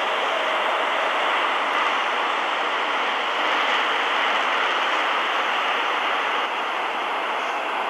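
Seoul Metro Line 2 electric train running between stations: a steady rush and rumble of wheels on rails, even in level throughout.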